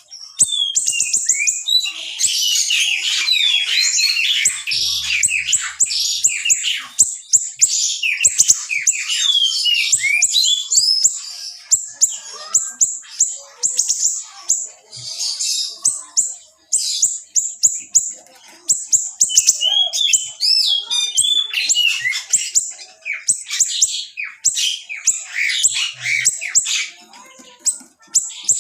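Small songbird (siri-siri) singing energetically: a dense, rapid stream of high-pitched chirps, quick trills and sharp note sweeps, pausing only briefly now and then.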